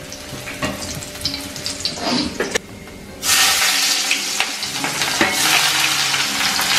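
Ginger frying in hot oil in an iron wok, with a few utensil knocks. About halfway through, sliced onions go into the oil and the sizzle gets much louder and denser as they are stirred with a wooden spatula.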